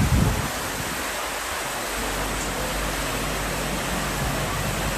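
Floodwater rushing fast and steadily, an even noise of moving water.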